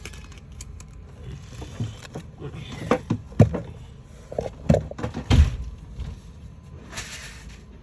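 Several dull knocks and bumps, the loudest about three and a half and five and a half seconds in, then a short rustle near the end.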